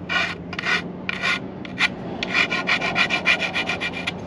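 A hand file scraping across the hacksawed end of a metal strut piece, deburring the cut. It makes a few slow strokes, then speeds up to about five strokes a second from about halfway through.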